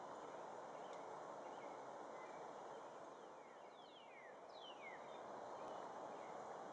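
Faint, steady outdoor background hiss, with a few short bird calls about halfway through: three or four quick downward-sliding whistles.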